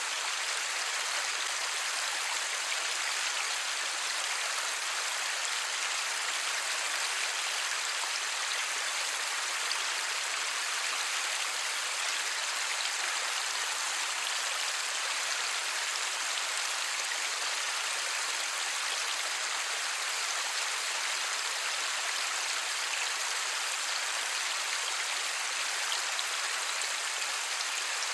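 Light rain falling steadily, an even hiss of many drops with no thunder.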